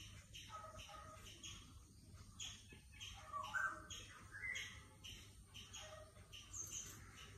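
Small birds chirping repeatedly, about two short calls a second, with a louder rising call around the middle.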